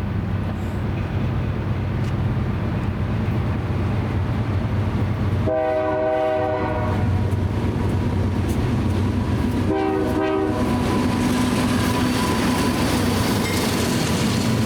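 A BNSF diesel locomotive sounds its multi-tone air horn twice: a long blast about five and a half seconds in, then a shorter one about four seconds later, over the steady low rumble of the engine. Rail and wheel noise builds toward the end as the train comes closer.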